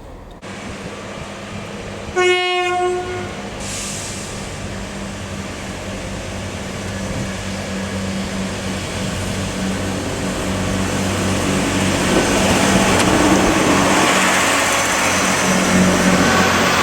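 A diesel train sounds one horn blast about two seconds in, lasting about a second, then its engine drone grows steadily louder as it approaches.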